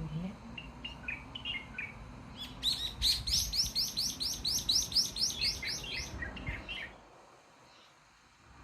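A songbird singing: a few scattered chirps, then a fast run of about twenty quick rising notes, about six a second, starting near three seconds in. It ends in a few slower falling notes.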